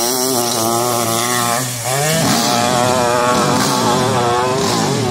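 600cc-class hillclimb motorcycle engine running hard at high revs, held at a steady pitch. From about two seconds in it revs up and down repeatedly as the rider works up the slope.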